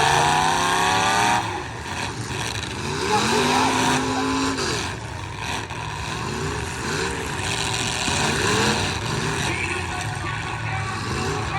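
Several demolition derby car engines revving hard and dropping back over a steady engine drone, one climbing steeply in the first second and a half, then repeated short rev rises and falls.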